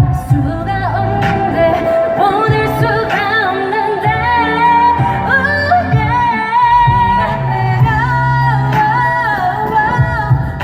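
Korean pop song with female singing over a steady dance beat, played loud.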